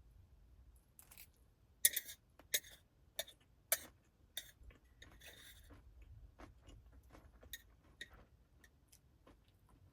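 Scattered light clicks and taps of small objects being handled, most of them in the first four seconds, with a brief rustle about five seconds in.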